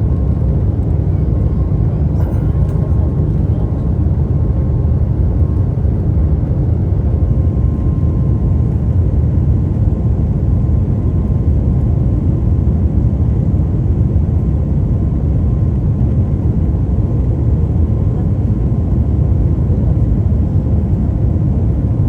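Steady low drone of a jet airliner cabin with the engines running and air rushing past the fuselage, with a faint steady whine on top.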